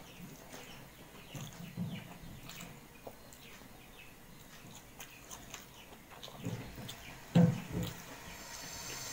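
A person chewing a soft mouthful of dal and mashed potato, with small wet mouth clicks and smacks. Two louder low thuds come about seven and a half seconds in.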